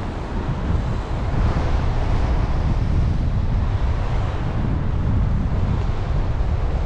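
Wind buffeting the microphone: a steady, rumbling rush of noise, heaviest in the low end.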